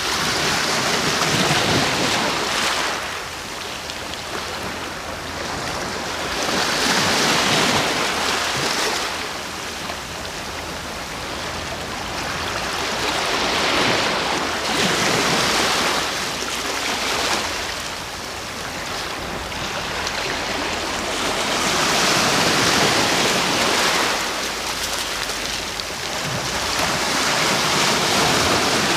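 Sea waves breaking and washing up the shore, the surf swelling and falling back about four times, every six to eight seconds.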